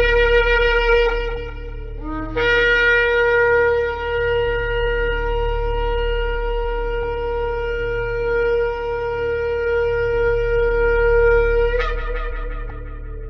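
Shofar (ram's horn) blowing: a short blast, then after a brief break one long steady note held for about nine seconds. Near the end the note flares upward and then fades away.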